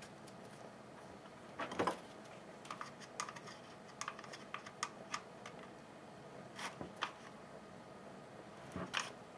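Irregular small clicks and taps of plastic and metal parts being handled and fitted during reassembly of a Stihl HS80 hedge trimmer, with louder knocks about two seconds in, around seven seconds, and near the end.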